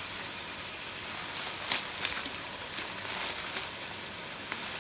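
Chicken pieces frying in oil with ginger-garlic paste and ground spices in a metal pot: a steady sizzle with a few sharp crackles.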